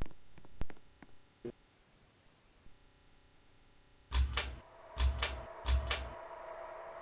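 Ceiling fan being switched: light clicks, then three pairs of sharp clicks with low thuds, after which the fan's motor starts a steady electrical hum.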